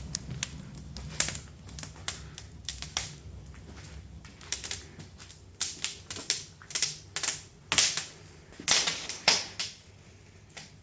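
Wood fire crackling in a fireplace, with irregular sharp pops several times a second over a low steady hum of the draft that fades in the second half.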